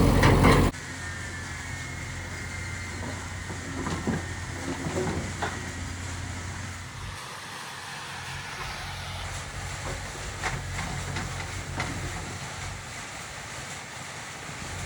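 Diesel engine idling with a steady low hum and a few faint knocks and clanks. A louder noise lasts under a second at the start, then cuts off abruptly.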